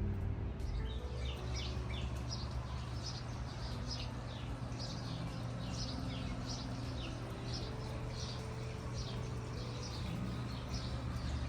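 Small birds chirping, short calls repeating several times a second, over a steady low background hum.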